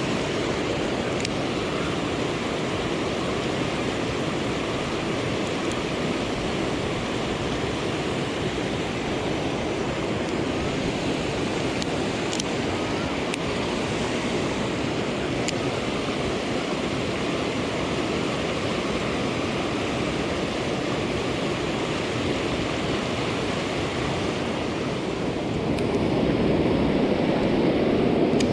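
Steady rushing of a flowing stream, with a few faint ticks; the rush swells a little near the end.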